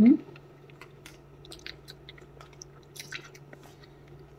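Close-up chewing of crisp mango slices, with small crunching clicks scattered throughout. It opens with a short, loud, rising hum of the eater's voice.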